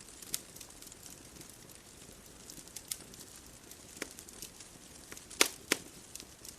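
Wood bonfire crackling: scattered sharp snaps over a soft hiss, with two loud pops close together about five and a half seconds in.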